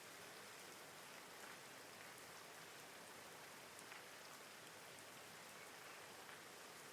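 Steady, faint rainfall, with a few individual drops ticking now and then.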